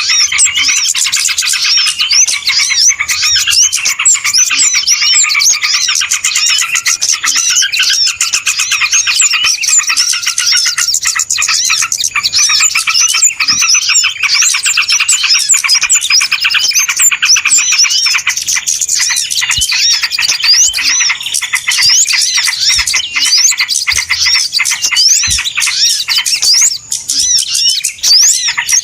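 Noisy, dense chorus of many small birds chirping and twittering over one another without a break: a bird-lure (pikat) recording made to draw in small birds.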